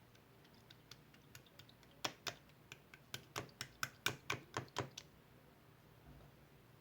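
A run of light clicks and taps, faint at first and then a quicker series of sharper ones, about a dozen, between two and five seconds in.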